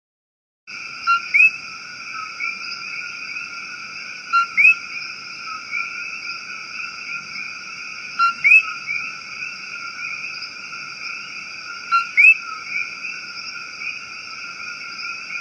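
Steady high-pitched chorus of calling night animals. A call of two short pips and a quick rising whistle stands out four times, about every three and a half seconds. No fire crackle stands out.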